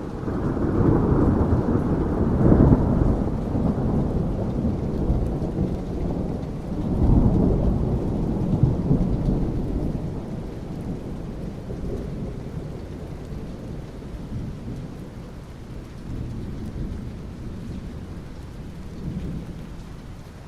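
Thunder rumbling over steady rain: a long roll swells in the first few seconds, surges again about seven seconds in, then slowly dies away.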